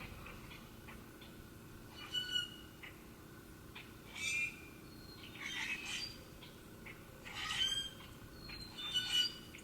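Wild birds giving short, harsh calls, about five spread through the stretch, with faint thin chirps in between.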